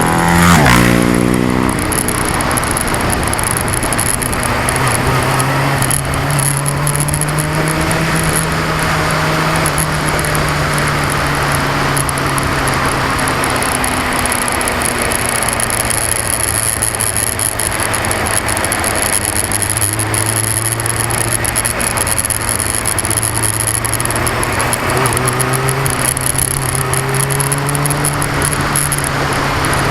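2002 Yamaha R6's inline-four engine running under way. Its pitch drops steeply in the first second, then rises and falls gently with the throttle. A dense rattly noise runs over it from the action camera vibrating.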